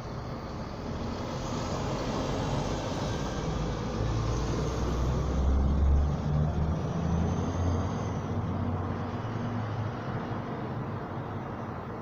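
Road traffic: a motor vehicle's low engine rumble and road noise swell to a peak about six seconds in, then fade as it passes.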